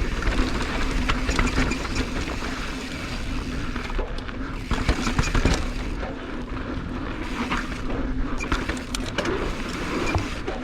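Mountain bike descending a rough, rocky trail: a steady rush of tyres on dirt, with repeated knocks and rattles from the bike over rocks and bumps, busiest about halfway through and again near the end.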